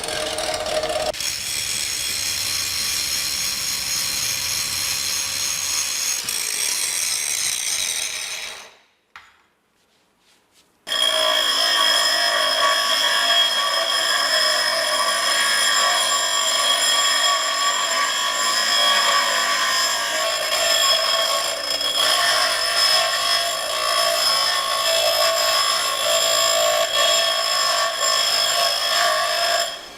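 Power saw cutting through the steel Panhard bar, a loud, steady, high ringing squeal of blade on metal. It stops for about two seconds near the middle, then runs on.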